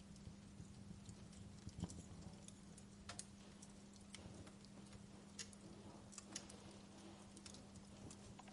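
Wood fire crackling, with irregular sharp pops and snaps, a few louder ones about two, three and five to six seconds in, over a faint steady low hum.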